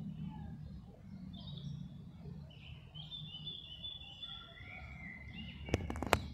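Small birds chirping in the background over a low steady rumble, with a quick run of about four sharp clicks close by near the end.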